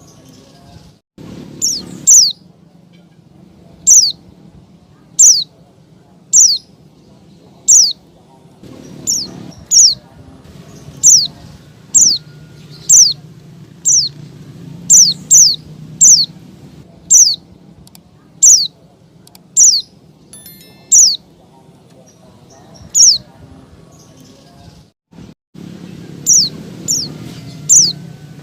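Female white-eye (pleci) calling: short, sharp high chirps that sweep downward, repeated roughly once a second and sometimes in quick pairs, over a low background hum. This is a female call used to draw male white-eyes into opening their beaks and singing.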